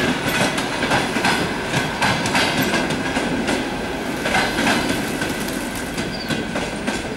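Passenger coaches of an express train rolling past, their wheels clattering in a running series of clicks over rail joints and points, with a thin steady wheel squeal. Quieter near the end as the train draws away.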